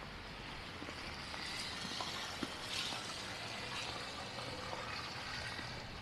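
Snowy city street ambience: a steady, even hiss that swells slightly in the middle, with a few faint ticks.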